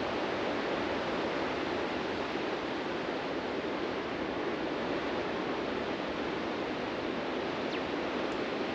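Ocean surf washing steadily onto a beach: a continuous, even rush of breaking waves with no single crash standing out.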